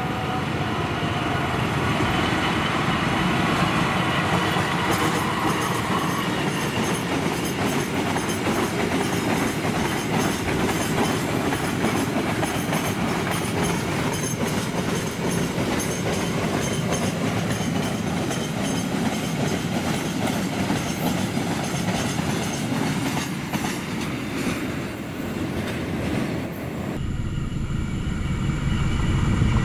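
Diesel-hauled freight train of loaded fuel tank wagons passing: a steady rumble of the wagons with clickety-clack of wheels over rail joints. Near the end the sound changes abruptly to a closer rumble that grows louder as the train nears.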